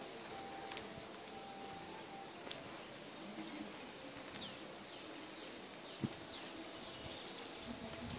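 Outdoor ambience of birds chirping: short downward-sliding calls repeated in groups, over a thin steady high tone. A single soft knock about six seconds in.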